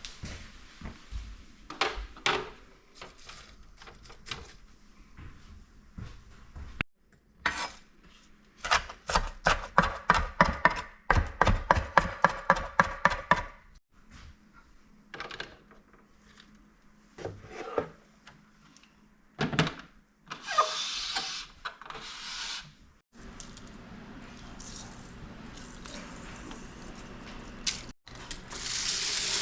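Kitchen work on a wooden surface: scattered knocks and clatter, and a fast run of sharp knife strokes on a cutting board for about five seconds, at roughly three to four a second. Near the end a steady low hum sets in.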